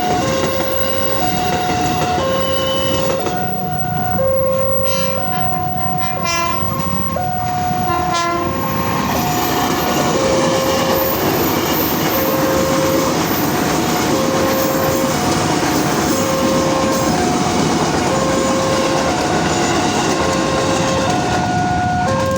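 A railway level-crossing alarm sounding a repeated two-note chime, about one note a second, over the loud steady rumble and clatter of a passing train.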